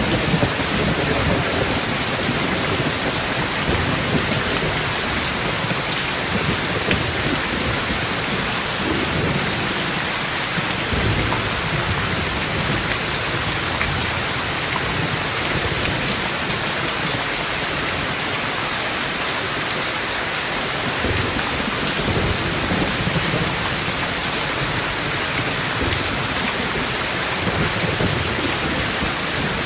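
Steady heavy rain, with low thunder rumbling up several times beneath it.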